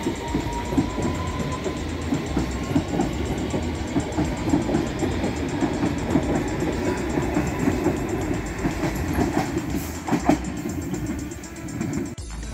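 London Underground train running on the rails, its wheels clattering over the track. A faint motor whine rises in pitch over the first couple of seconds, and a few sharper clicks come near the end before the sound breaks off suddenly.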